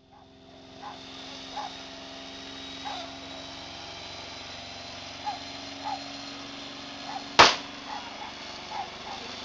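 1990 Chevrolet Celebrity wagon's 3.1 V6 running steadily through a tyre-smoking burnout, with short chirps over it. One sharp, loud bang stands out about seven and a half seconds in.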